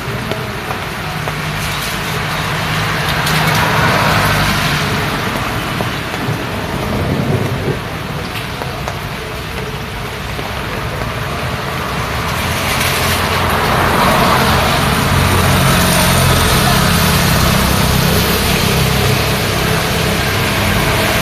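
Road traffic in the rain: a steady hiss of tyres on wet road with engine hum, swelling as vehicles pass, most strongly from about halfway on.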